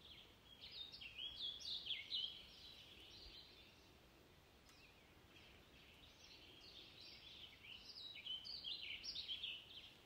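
Faint bird song: clusters of quick, high chirps and trills in two spells, the first about a second in and the second from about six and a half seconds in, over a light hiss.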